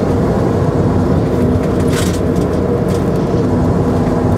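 Semi truck's diesel engine running steadily with a low rumble, with a few brief clicks about halfway through.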